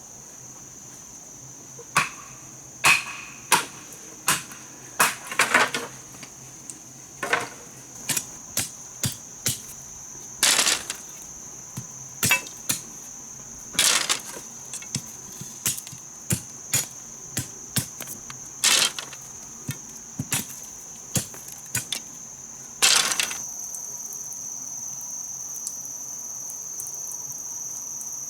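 Irregular knocks and chopping strikes on wood, roughly one or two a second, some short and sharp and a few longer and scraping. They stop near the end. Under them runs a steady high-pitched drone of insects such as crickets, which is louder once the strikes stop.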